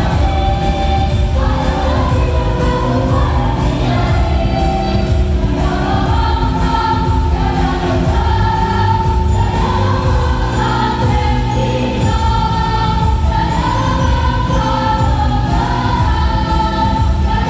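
Women's choir singing in unison over a musical accompaniment with a steady beat and a jingling percussion sound.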